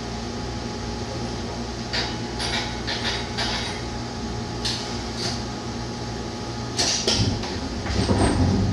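Replica streetcar standing with a steady low hum and scattered knocks and clicks, then starting to move near the end, its low rumble building.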